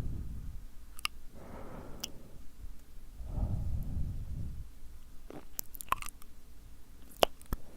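ASMR ear blowing and wet mouth sounds: soft gusts of breath blown into the microphone, alternating with sharp lip smacks and tongue clicks. The clicks bunch together in the second half.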